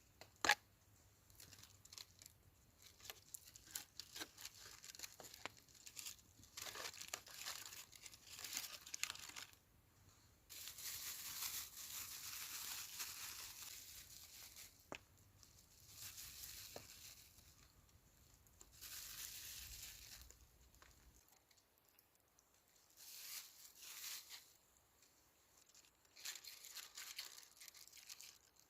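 Rustling and crinkling handling noises in bouts of a few seconds, with scattered small clicks and one sharp click about half a second in.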